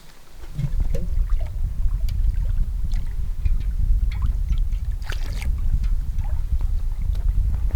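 Wind buffeting the microphone: a steady low rumble that starts suddenly near the beginning, with faint scattered clicks and taps above it.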